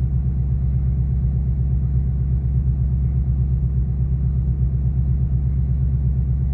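2024 Ford Mustang GT (S650) 5.0-litre V8 idling steadily as it warms up, with a low, even exhaust rumble.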